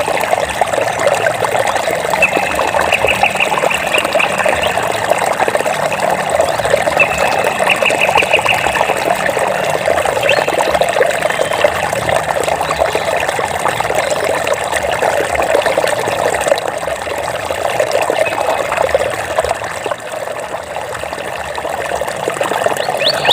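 Running water trickling and splashing steadily, a dense babbling noise. A high, rapid pulsing trill cuts in briefly twice in the first half.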